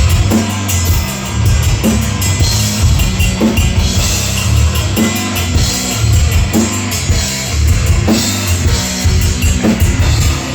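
Rock band playing live, instrumental stretch: the drum kit keeps a steady driving beat with hits a little more than once a second and constant cymbals, under guitar.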